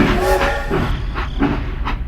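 A small motorised machine running with a steady low hum and an uneven, repeating knock.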